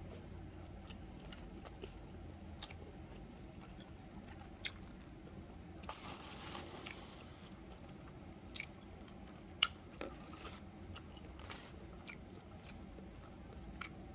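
A person chewing food close to the microphone: soft mouth sounds broken by sharp clicks and smacks every second or two, with a short breathy hiss about six seconds in.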